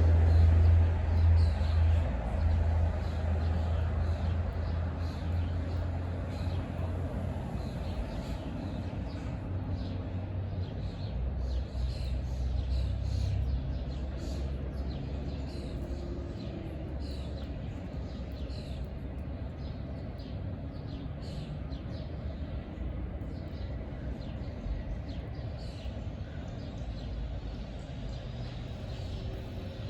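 Many small birds chirping in quick short calls over a low vehicle rumble. The rumble is loudest in the first couple of seconds and then eases off.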